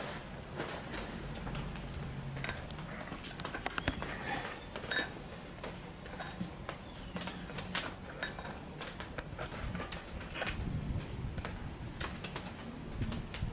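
Scattered clicks and light metallic jingles, with a sharper knock about five seconds in, as a gyrfalcon x lanner hybrid falcon is handled and set out.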